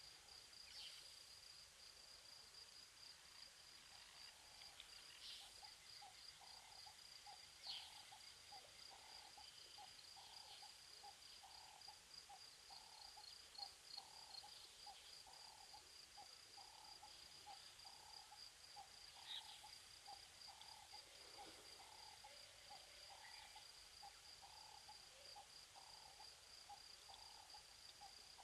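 Faint insect chorus: a steady, high-pitched pulsing trill of crickets, joined about four seconds in by a lower call pulsing about twice a second, with a few short bird chirps.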